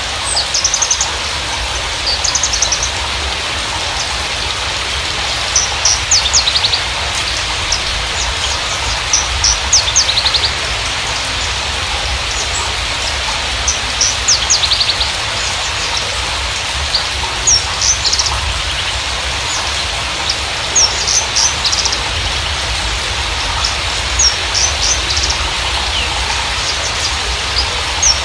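Horsfield's bushlark (Javan race, Mirafra javanica parva) singing: bursts of short, high chirps and quick trills every second or two, over a steady rain-like hiss and a low hum. This is lure song played to get a silent captive bushlark singing.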